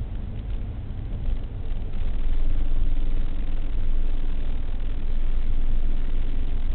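Car engine idling at a standstill, a steady low hum heard from inside the cabin; it grows a little louder about two seconds in.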